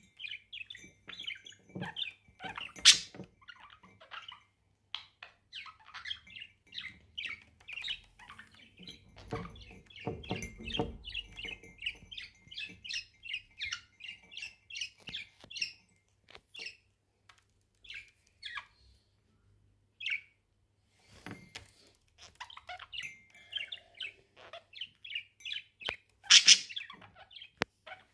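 Pet budgerigars chirping and chattering in quick runs of short, high notes, with pauses. There are two louder, sharp sounds, one about three seconds in and one near the end.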